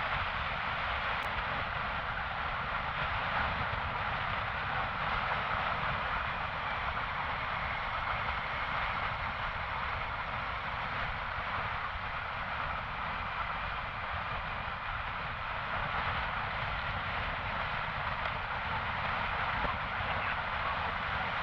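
Motorcycle on the move at steady road speed: constant wind rush and engine noise buffeting a helmet- or bike-mounted action camera's microphone.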